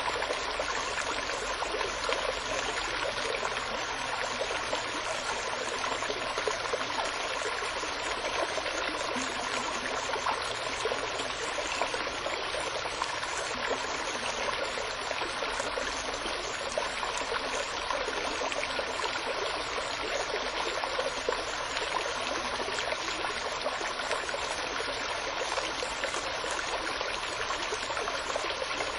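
Water running in a stream, an even, steady babbling and trickling with no breaks.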